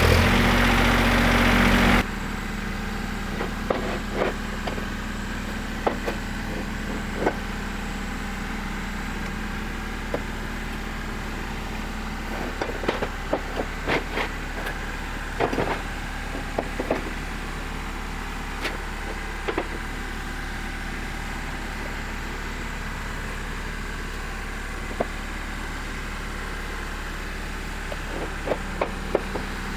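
Diesel engine, just started, running fast for about two seconds, then dropping suddenly to a steady idle. Scattered light clicks and knocks sound over it.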